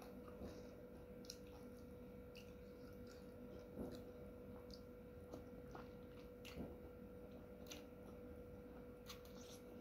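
Faint eating sounds of someone gnawing and chewing a boiled chicken foot: soft mouth clicks and smacks scattered through, over a steady faint hum.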